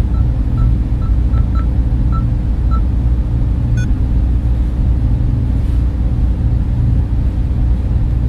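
Server room cooling fans running with a steady, loud low hum and drone. A few faint short high blips sound in the first three seconds, and a single faint click comes about four seconds in.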